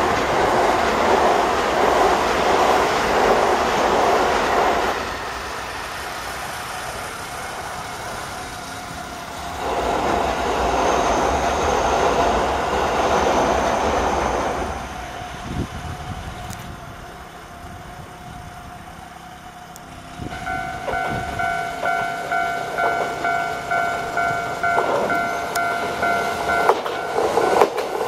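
JR Hanwa Line electric trains crossing the steel overpass, rumbling and clattering, twice. From about 20 seconds a level crossing alarm rings in an evenly repeated tone, while the Mizuma Railway 1000 series EMU's wheels clack louder as it approaches near the end.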